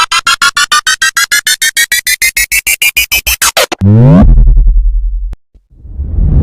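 Electronic sound effects: a rapid train of synthesized beeps, about eight a second, climbing steadily in pitch for about three and a half seconds. Then comes a low electronic tone sliding down in pitch, and after a brief break a loud noisy blast begins near the end.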